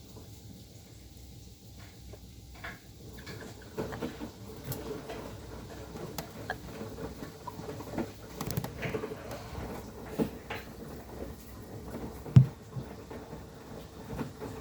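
Sharp washing machine running: a steady hum with irregular light knocks and rattles throughout, one sharper knock near the end.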